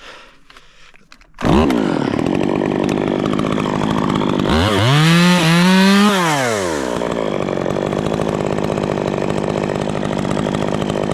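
Stihl chainsaw running: it comes in abruptly after a quiet first second, idles, then is revved up to full speed for about two seconds and eases back down to idle.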